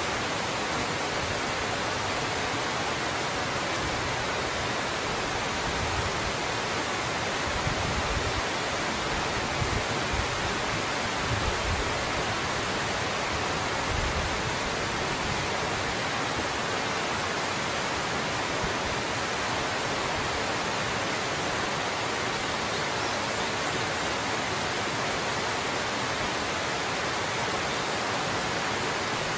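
Waterfall pouring steadily among ice and icicles, a constant full rushing of water, with a few brief low surges in the first half.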